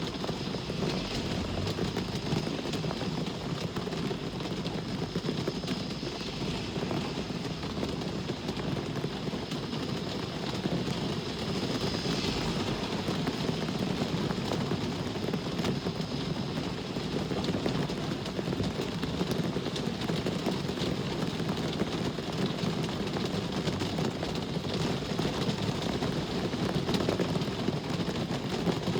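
Steady rain and road traffic: a continuous low rumble of vehicles under an even hiss, with no sudden events.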